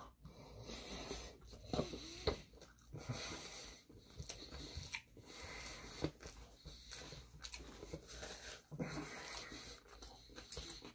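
Faint chewing of a mouthful of sushi, with scattered small wet mouth clicks and soft breathing.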